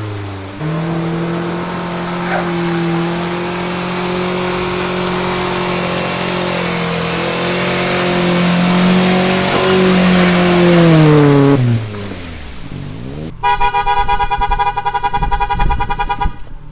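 1995 Mazda's Ford engine revving hard and held high while the car is stuck, its pitch wavering slightly, then dropping away as the throttle is let off. About a second later a loud buzzy pitched sound with a pulsing level cuts in abruptly.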